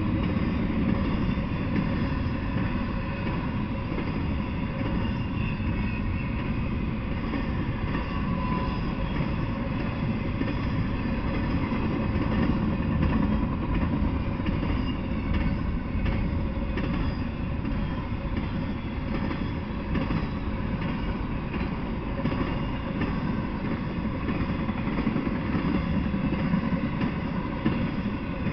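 Intermodal freight train passing, its cars of trailers and double-stacked containers rolling by: a steady, unbroken rumble of steel wheels on the rails.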